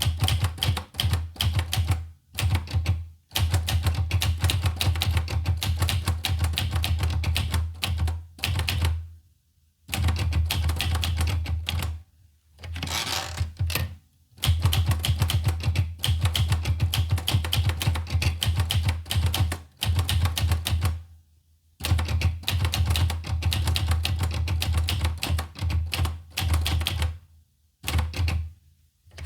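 Olivetti Lettera 25 manual portable typewriter being typed on: quick runs of key strikes clacking against the platen, broken by short pauses every few seconds.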